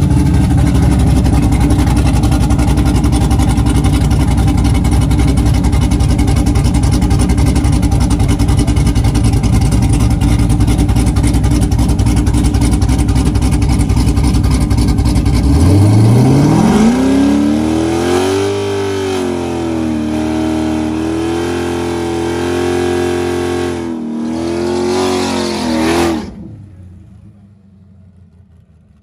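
Sixth-generation Chevrolet Camaro: a loud, steady engine rumble for about fifteen seconds. Then the engine note climbs steeply as the car launches, holds with small dips through the run, and drops away sharply near the end.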